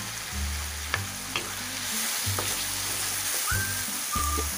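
Chopped tomatoes and spices sizzling in a hot iron kadai while a wooden spatula stirs and scrapes through them, with a couple of sharp knocks of the spatula about a second in.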